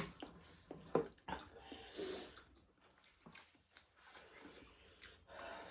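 Faint eating and handling noises: a few sharp clicks and short rustles, the loudest at the start and about a second in, with quieter chewing between.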